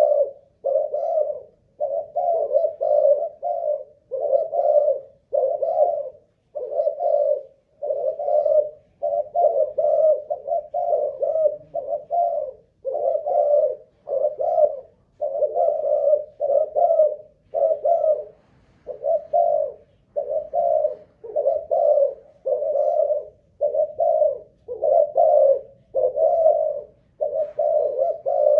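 Malaysian spotted dove cooing without a break, its short low coos repeating about once a second. This is a long, sustained calling run of the kind bred for in Malaysian cu gáy.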